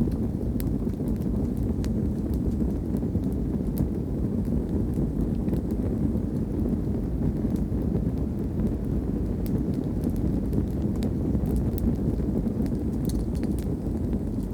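Campfire of wood logs burning: a steady low rumble of flames with scattered sharp crackles and pops from the wood.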